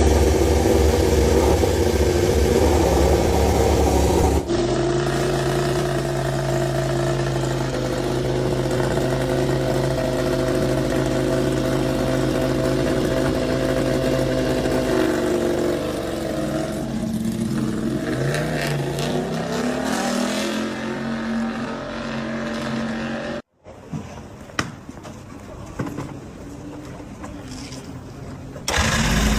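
Racing motorcycle engines across several edited clips. The engine note holds steady for a long stretch, then rises and falls in pitch, before a quieter stretch with a few clicks near the end.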